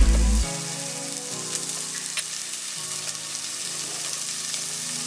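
Chopped onion and garlic frying in butter in a pot: a steady sizzling hiss with small crackles.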